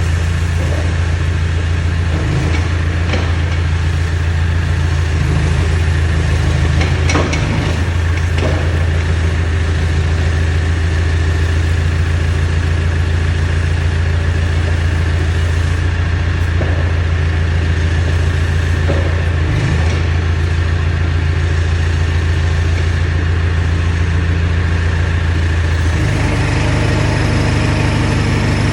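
Backhoe's diesel engine running steadily at idle. Its note shifts about two seconds before the end, and there are a couple of light knocks early on.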